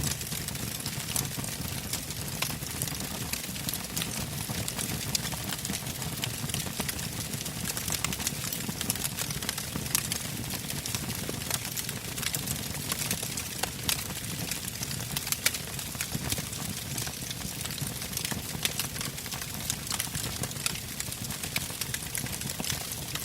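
Wood fire burning with a steady rush of flame and frequent sharp crackles and pops from the logs.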